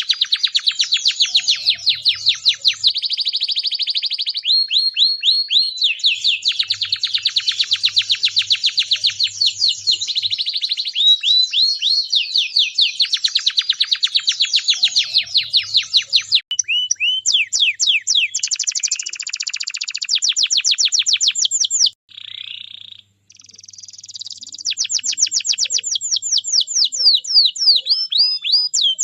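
Canary singing a long song of rapid trills: fast runs of repeated high sweeping notes, switching to a new trill every few seconds, with a brief pause about 22 seconds in.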